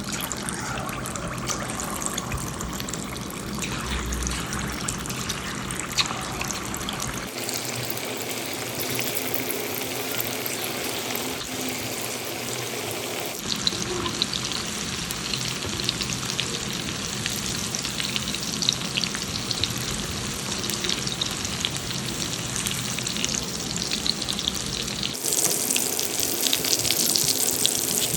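Marinated chicken pieces deep-frying in hot oil in a small iron kadai: a steady sizzle full of fine crackling pops. The sizzle changes abruptly a few times and is a little louder near the end.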